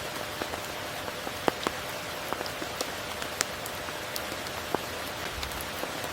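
Steady rain falling, with individual drops striking nearby as sharp ticks scattered through it, a few louder than the rest.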